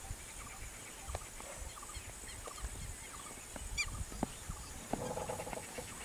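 Quiet open-air wetland ambience with faint wild bird calls: a quick falling series of high chirps midway, and a short flat-pitched call near the end.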